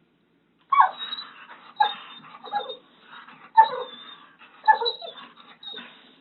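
A dog barking, about six short barks spaced roughly a second apart.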